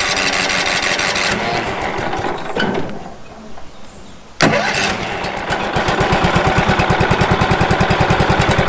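Wood-Mizer LT15 sawmill engine running, then dropping away about two and a half seconds in. Just after four seconds it starts up again with a sudden burst and settles into a steady, evenly pulsing run.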